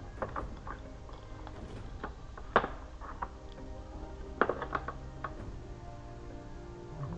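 Background music with scattered sharp metallic clicks and knocks of hand tools working on an engine, the loudest about two and a half seconds in and a quick cluster a little after four seconds.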